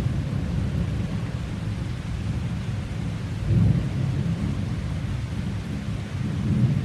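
Thunder rumbling low and long over steady rain, swelling louder about halfway through and again near the end.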